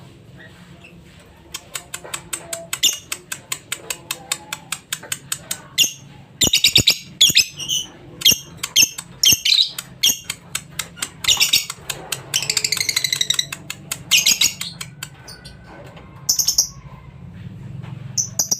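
Lovebird chattering: runs of quick, sharp chirps at about four a second, breaking several times into long, shrill trills. A steady low hum lies underneath.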